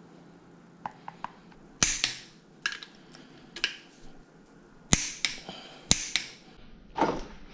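Irregular sharp clicks and knocks of hand tools and metal engine parts being handled, the loudest about two, five and six seconds in.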